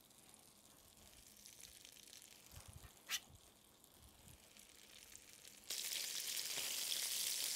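Ground-beef patties frying in melted butter in an enamelled cast-iron pan: a faint sizzle at first with one sharp click about three seconds in, then a much louder steady sizzle from about six seconds in.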